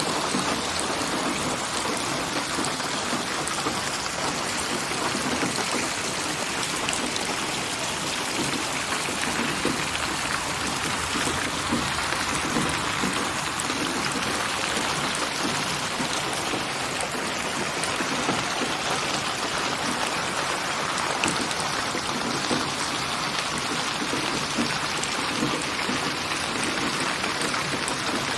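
Steady rain falling, with individual drops pattering on surfaces, made from layered rain recordings and panned around the listener in 8D surround.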